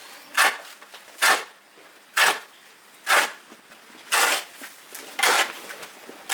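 Rhythmic scraping strokes, about one a second, each short and harsh with no pitch, the fourth and fifth a little longer.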